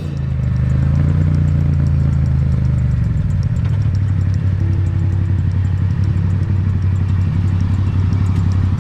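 Motorcycle engine running steadily while riding, swelling in the first second. Its pitch eases down a little about three seconds in as the engine comes off the throttle.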